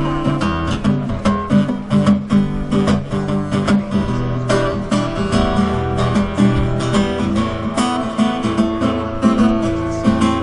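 Live acoustic guitar strummed in a steady rhythm, playing a song's instrumental introduction.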